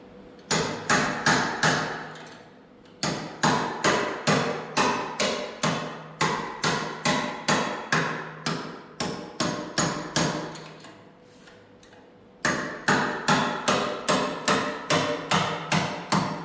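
Hammer blows on metal, about two to three a second, in three runs with short pauses between, each strike ringing briefly.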